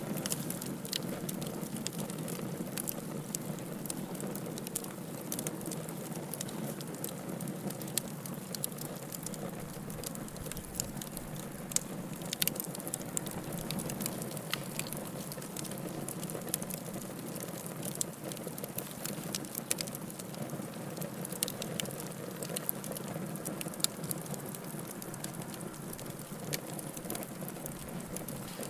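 Wood fire burning with a steady low rush of flame and irregular sharp crackles and pops throughout.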